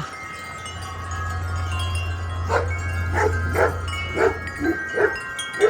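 Wind chimes ringing steadily as a strong gust arrives, with wind rumbling on the microphone for the first few seconds. From about halfway in, a dog barks about six times, which are the loudest sounds.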